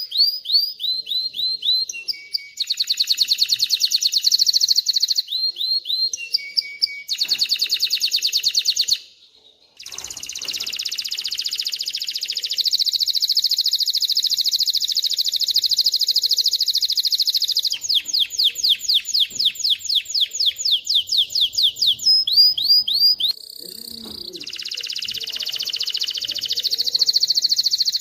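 Male canary singing a long song of rapid trills, each phrase a fast run of one repeated high note before switching to the next, with a brief break about nine seconds in.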